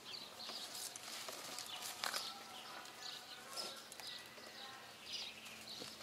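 Small birds chirping over and over, with a few light clicks and rustles as the date bunches are handled.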